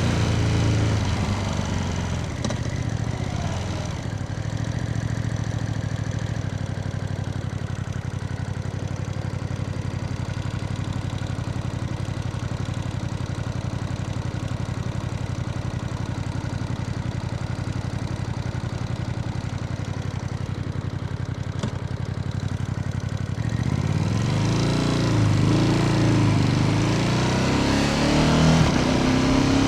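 Ducati Panigale V2S motorcycle's V-twin engine running steadily at low revs for about twenty seconds. Near the end it revs up, its pitch rising and falling.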